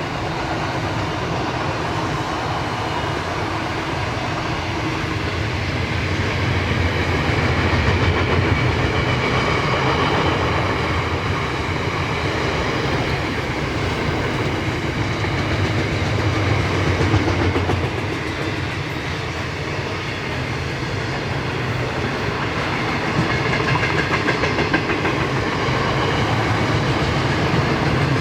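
Diesel-hauled train passing close by, its wheels clicking over the rail joints in a steady run that swells and eases in loudness.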